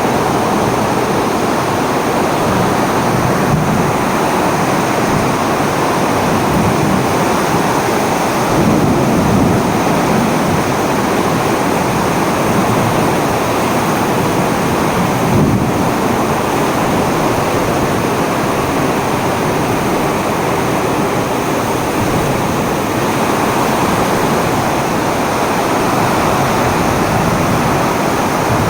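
Steady, loud rushing noise of a storm, with small swells now and then.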